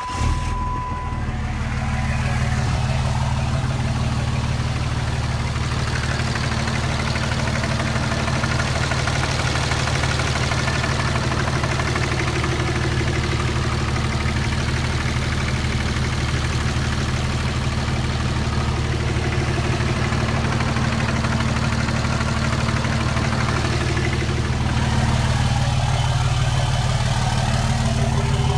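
2007 Dodge Ram 2500's 5.9 Cummins turbo-diesel inline-six, fitted with a custom 4-inch exhaust, starting up and then idling steadily, a little louder near the end. A short electronic chime tone sounds just as it starts.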